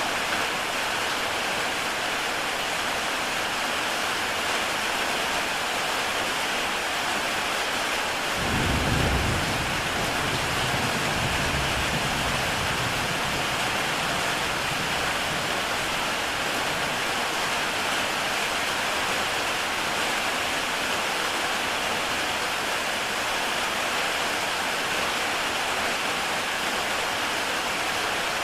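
Heavy rain falling steadily on a tile roof. About a third of the way in, a low rumble of thunder starts suddenly and fades away over several seconds.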